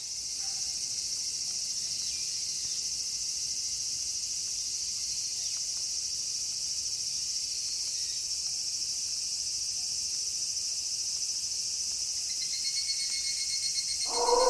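Steady, high-pitched chorus of night insects such as crickets, with a pulsing trill joining in near the end. In the last half second a loud, long pitched call begins.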